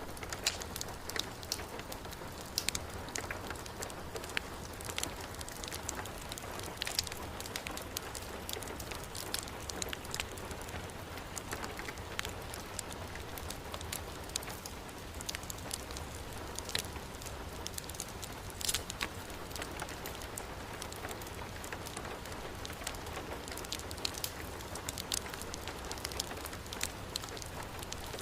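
Heavy rain falling steadily, mixed with a crackling wood fire: scattered sharp pops and ticks over the even hiss of the rain.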